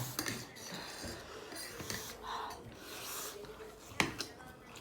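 Faint eating and utensil sounds while spicy instant noodles are eaten: scattered soft clicks and rustles, with a sharper click about four seconds in.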